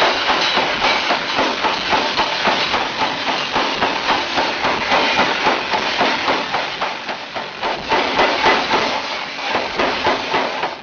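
Pneumatic forging hammer striking hot steel in rapid, steady blows, several a second, as a kitchen knife blank is forged.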